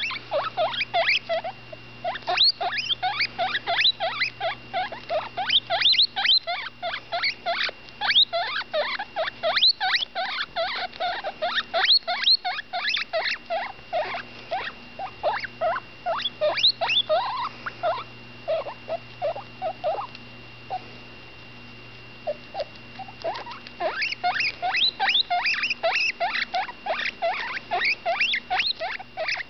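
Baby guinea pig making rapid short squeaks, several a second, while eating with her mouth full. The squeaks stop for a few seconds a little past the middle, then pick up again.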